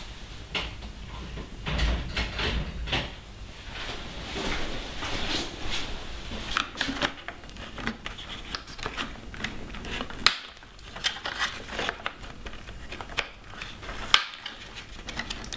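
Irregular clicks, knocks and short scrapes of plastic motorcycle panel parts being handled and trimmed by hand, with a sharper click about ten seconds in and another near the end.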